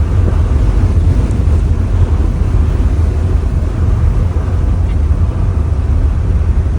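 Turbocharged BMW E46 with an M54B22 straight-six, driving along at a steady pace. It makes a loud, even, low rumble without revving up or down.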